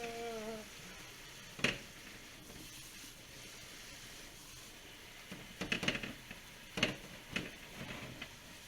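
Metal range-hood filters being handled during cleaning: a sharp clink a little under two seconds in, then a run of knocks and clatter in the second half, over a faint steady hiss.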